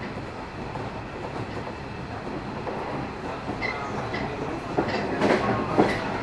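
Cabin running noise of a JR 113 series electric train, heard inside a KuHa 111 driving trailer car: a steady rumble of wheels on rail. A few brief high squeaks come past the middle, and a run of louder wheel clacks follows in the last second or so.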